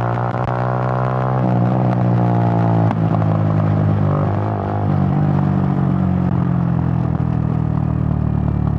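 Suzuki GN125's single-cylinder four-stroke engine running under way. Its note drops, then climbs for about a second and a half and breaks off, as in a gear change, before settling into a steady lower drone for the rest.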